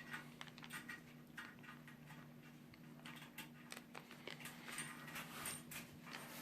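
Faint, scattered light clicks and clinks of small metal hardware being handled: stainless washers and nuts being fitted onto toilet tank-to-bowl bolts.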